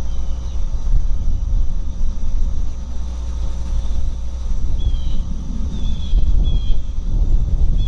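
Steady low outdoor rumble. From about five seconds in, a few short, high, falling chirps of a small bird.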